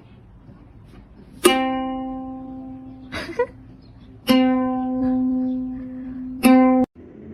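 Three plucked notes of the same pitch on a ukulele-like string instrument, each ringing and slowly fading, the last one cut off short.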